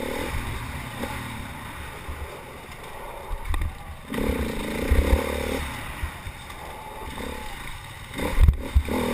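A racing vehicle's engine heard up close, rising in revs for about a second and a half midway and again near the end. Underneath is a steady low rumble with repeated thuds.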